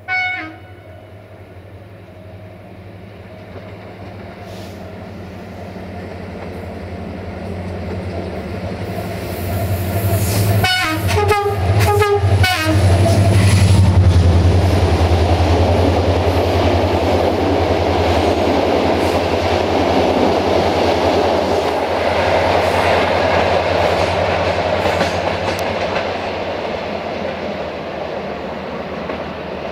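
A CFR class 65 diesel-electric locomotive hauling passenger coaches approaches with its engine hum growing louder. It sounds a few short horn blasts as it passes close by about 11 seconds in. The coaches then roll past with a steady rumble and wheel clatter that slowly fades.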